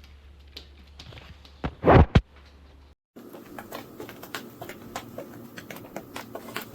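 Two loud thumps close together about two seconds in, then, after an abrupt cut, a run of light taps and clicks.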